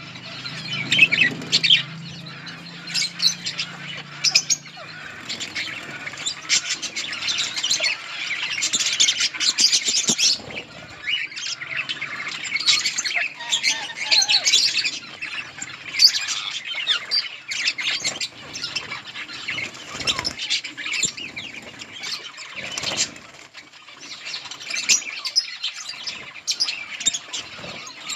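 A colony of budgerigars chirping and chattering, many short high calls overlapping without a break.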